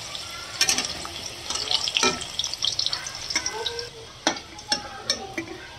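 Food sizzling in a hot pan, with a spoon knocking against the pan in a few sharp clicks as it is stirred.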